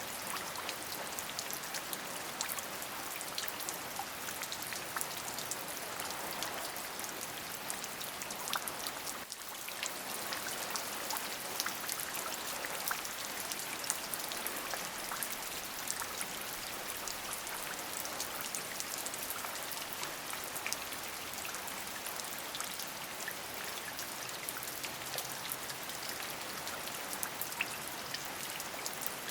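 Steady rain, a constant hiss dotted with many separate drop hits, dipping briefly about nine seconds in.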